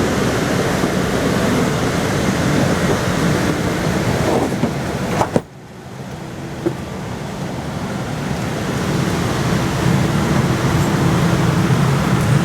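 Steady hum and rushing air noise of an airliner's boarding environment, jet bridge and cabin ventilation, with a sharp click about five seconds in, after which the noise drops suddenly and then slowly builds back up.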